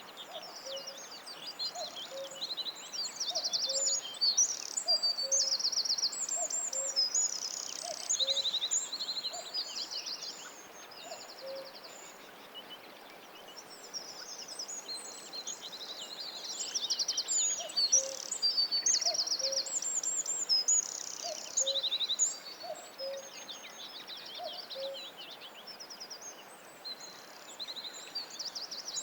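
Several songbirds singing at once, with fast high trills and chirps overlapping. Beneath them a low two-note hooting call, the second note lower, repeats about once a second, pausing for a few seconds midway.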